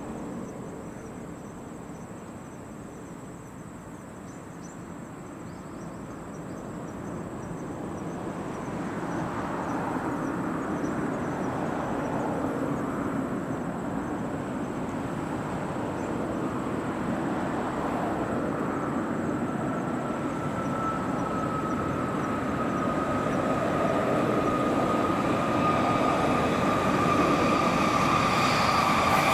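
An N700S Series 8000 shinkansen train approaching on an elevated track, its running noise growing steadily louder as it nears. In the last third a high whine rises above the rumble and falls slightly in pitch as the train slows for its station stop.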